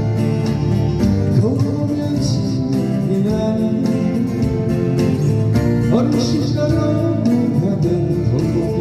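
Live band playing a slow Korean pop song, with guitar accompaniment and a singing melody line.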